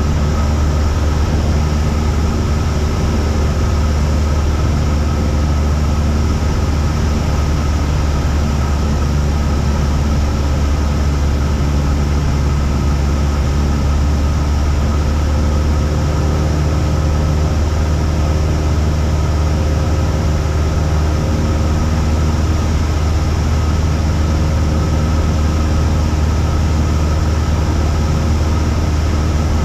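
Cessna 172's single piston engine and propeller running steadily in flight: an even, unchanging drone.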